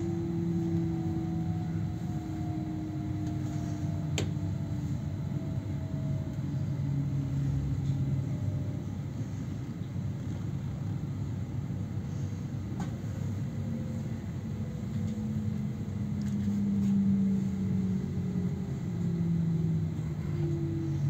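Inside an electric double-deck passenger train: the steady rumble of the running carriage, with the electric drive's whine falling slowly in pitch as the train slows into a station. Two faint clicks are heard, about 4 and 13 seconds in.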